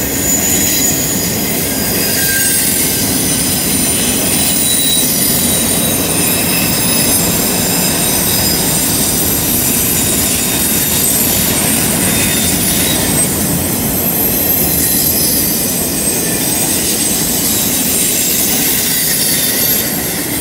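Freight train of autorack cars rolling past on a curve: a steady rumble of wheels on rail, with the wheel flanges squealing in thin, high tones that come and go.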